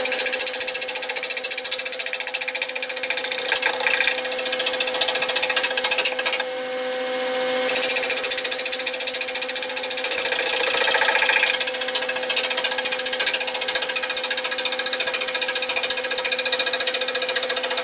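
Turning tool cutting a spinning, uneven oak bowl blank on a Nova 16/24 wood lathe: a rapid, rhythmic chatter as the edge meets the out-of-round wood, over the lathe's steady hum. The cutting stops for about a second around a third of the way in, then starts again.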